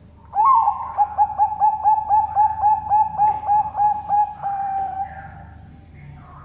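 A Bangkok-strain zebra dove (perkutut) singing one full song. It opens with a higher coo, runs into a fast, even string of short repeated coos at about five a second, and ends in a drawn-out final note that fades about five seconds in.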